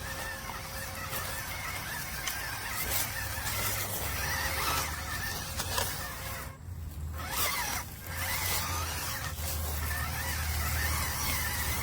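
Small electric motor and gearbox of a 1/12-scale RC rock crawler whining as it drives, the pitch wavering with throttle, with scattered clicks and knocks. The sound drops away briefly about two-thirds of the way through.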